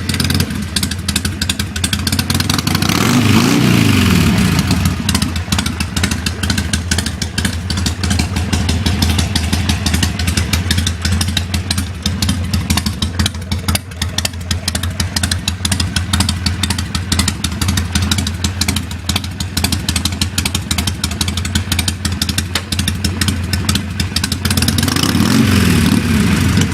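Harley-Davidson Sportster V-twin running through Cycle Shack PHD-230 drag pipes with no baffles, idling loud and lumpy. The throttle is blipped twice, once about three seconds in and again near the end, with the pitch rising and falling back each time.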